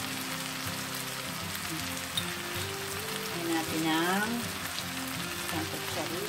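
Chicken pieces frying in oil in a pan, a steady sizzle, under background music.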